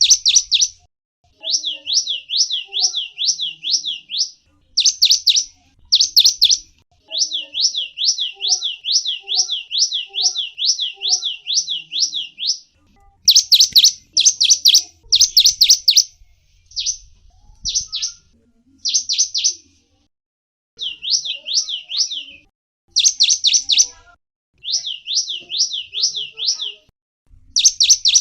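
Gelatik wingko, a small songbird, singing fast runs of high, sweeping notes, about five or six a second. The runs last one to three seconds and break off with short pauses; those about halfway through are the loudest.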